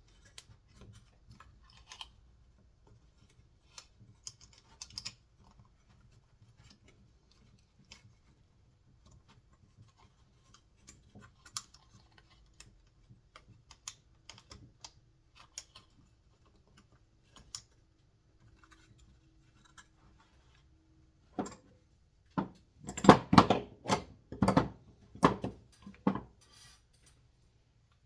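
Plastic and metal parts of a Remington SL9 chainsaw's recoil starter clicking and tapping as they are handled while the rewind spring is wound. Light scattered clicks give way near the end to a quick run of louder, sharp clacks.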